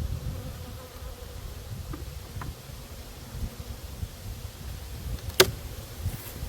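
Honeybees buzzing steadily around an opened hive. About five seconds in there is one sharp click, louder than the buzzing.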